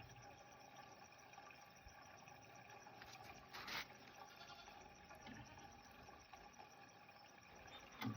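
Near silence: a faint steady background hum, with one short rustle or scrape about three and a half seconds in.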